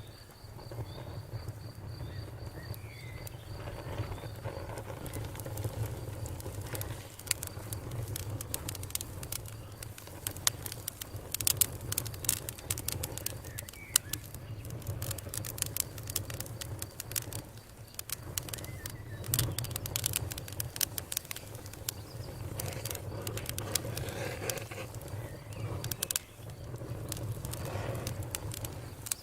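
Campfire crackling, with a steady stream of sharp pops that come thickest around the middle. An insect trills steadily for the first few seconds.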